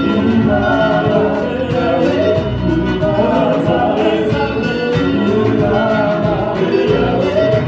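A live worship band playing an upbeat gospel song with group singing over a steady beat.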